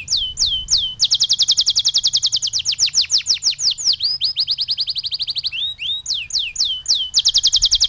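Domestic canary singing continuous fast trills of repeated down-slurred whistled notes, about ten a second, switching to a different note shape and pace a couple of times.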